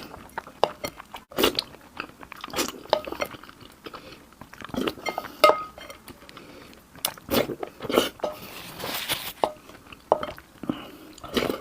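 Close-miked eating: crunchy bites and chewing, irregular crackly crunches throughout.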